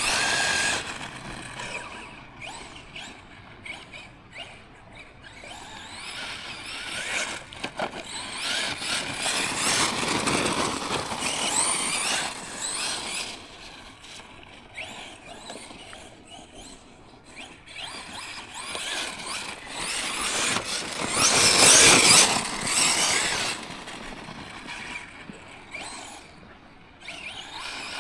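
Tekno MT410 2.0 1/10 electric monster truck driving: its brushless motor and drivetrain whine up and down with the throttle, in waves that are loudest about ten seconds in and again about twenty-two seconds in.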